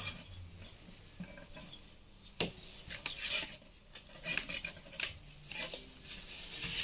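Small internal parts of a Ford Mondeo power-seat motor being handled and fitted by hand. Intermittent scraping and rubbing, with a sharp click about two and a half seconds in.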